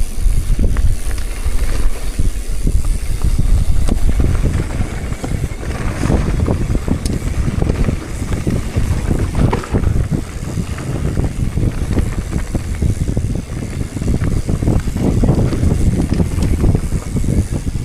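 Wind buffeting a moving microphone: a steady low rumble with uneven crackles and gusts.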